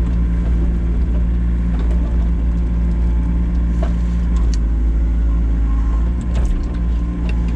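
Excavator's diesel engine running steadily while digging, with short squeaks and knocks from the machine now and then. The squeak is one of the faults the machine is going in to be repaired for.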